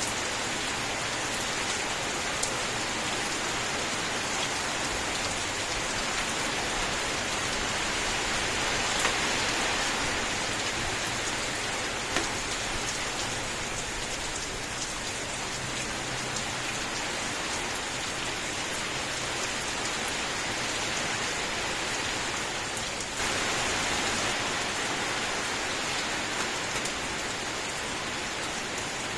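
Steady rain falling, a dense continuous hiss of drops with scattered sharper drop ticks. It turns abruptly louder about three-quarters of the way through.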